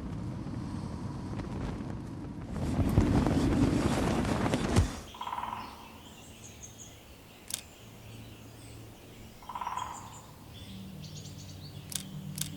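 Outdoor ambience: a rushing noise that grows louder and stops abruptly about five seconds in. After that, quieter open-air ambience with birds chirping, including two short, lower calls.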